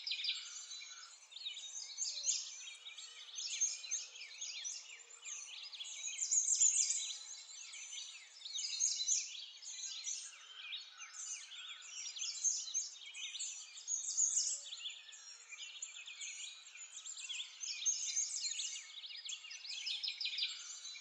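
A dense chorus of small birds chirping, many short high calls overlapping without a break.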